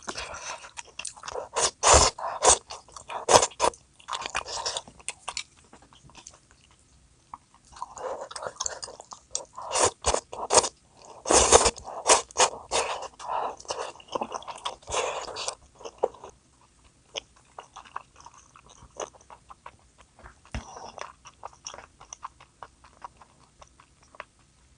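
Close-up chewing and biting of crunchy food, with loud crackling crunches in bursts that thin out to softer chewing in the last third.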